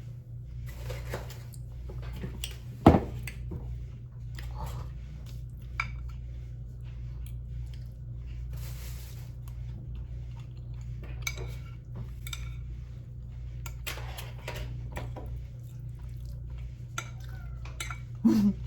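Cutlery scraping and clinking against a dish of food while eating, with one sharp loud clink about three seconds in, over a steady low hum.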